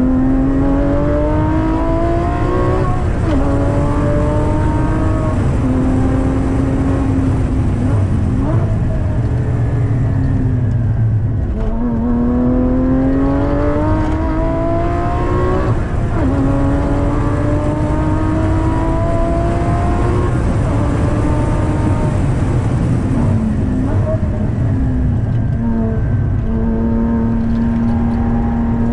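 Porsche Cayman GT4's naturally aspirated 3.8-litre flat-six heard from inside the cabin, pulling hard with the revs climbing and dropping sharply at upshifts of the manual gearbox, about three seconds in, about twelve seconds in and about sixteen seconds in. Later the revs fall as the car brakes and changes down, then start climbing again near the end, over a constant rumble of road and tyre noise.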